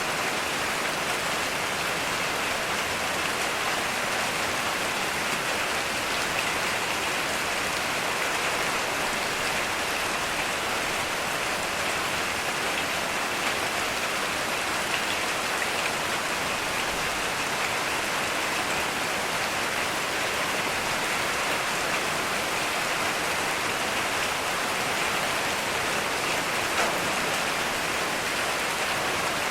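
Heavy rain falling steadily, an even hiss of countless drops that does not let up.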